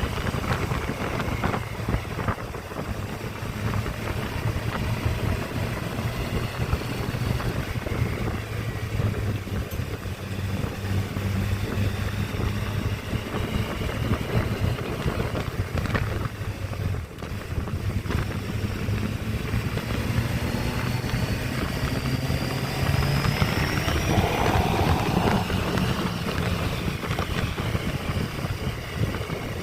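Honda motorcycle engine running on the move, with a steady note that climbs and grows louder for a few seconds about three-quarters of the way through.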